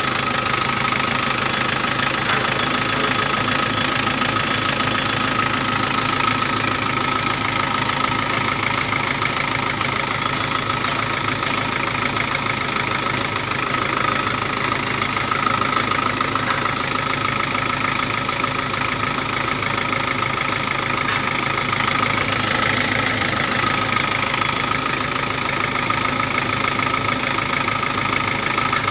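Vehicle engine idling steadily, with a steady high whine over the running. The engine has overheated after losing its coolant and shakes when it runs too hot.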